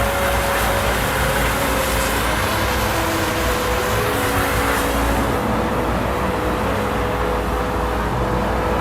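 Steady road traffic noise, a low rumble with tyre hiss that eases about five seconds in.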